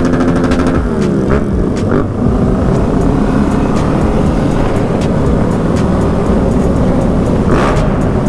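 Dirt bike engine running under way, the revs falling and rising through gear changes in the first two seconds, then holding steady and loud, mixed with the engines of other motorcycles riding alongside.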